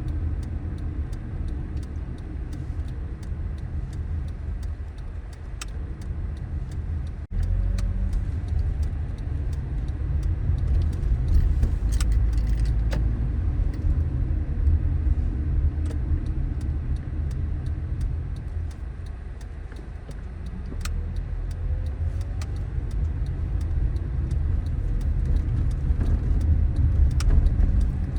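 Car driving on city streets: a steady low rumble of engine and road noise that swells and eases with speed, with faint scattered clicks and rattles.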